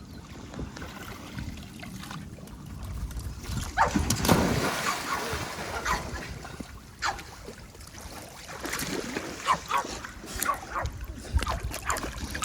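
Dogs in a swimming pool: water splashing, loudest in a burst about four seconds in, followed by scattered short splashes and brief dog calls.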